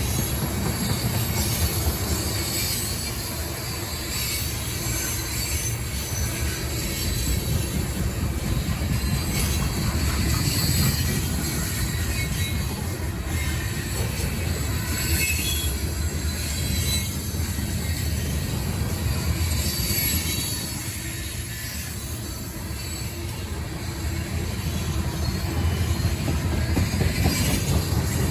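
Freight train rolling past on CSX track: a steady rumble of rail cars, with scattered high-pitched wheel squeal.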